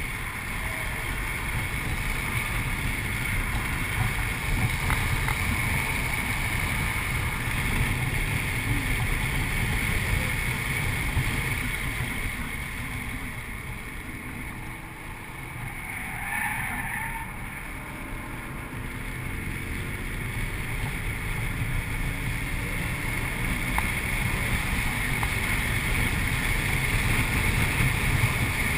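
Audi RS4's V8 engine running at track speed, with tyre and wind noise, heard from inside the cabin as a steady drone. The level drops for a few seconds about halfway through, then builds back up.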